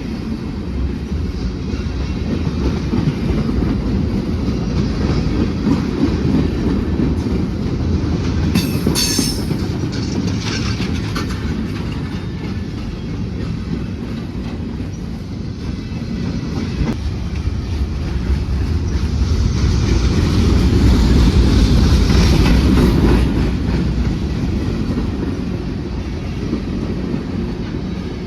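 BNSF freight train rolling by, its wheels clattering over the rails with a steady heavy rumble. There is a brief high-pitched screech about nine seconds in, and the train grows louder around the two-thirds mark before easing off.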